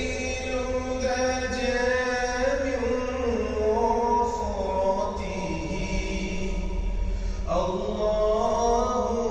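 Background vocal music: a voice singing a slow, chant-like melody in long held notes that slide from pitch to pitch, with a new phrase starting sharply about seven and a half seconds in.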